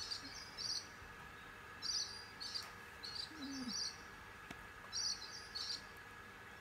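A bird calling over and over in the background: short high chirps, mostly in pairs, repeating about every second and a half, over a faint steady hum.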